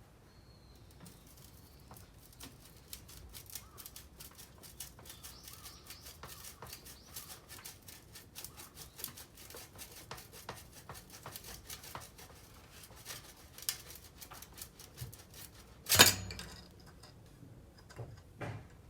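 Small metal tools and parts being handled, making a run of light clicks and clinks, with one much louder clank about three-quarters of the way through.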